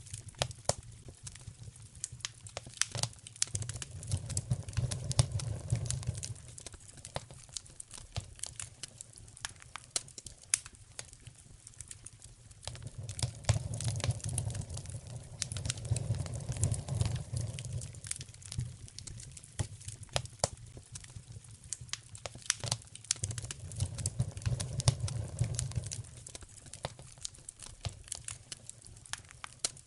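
Wood fire in a fireplace crackling, with frequent sharp pops and snaps of varying loudness. A low rumble swells up and fades away three times.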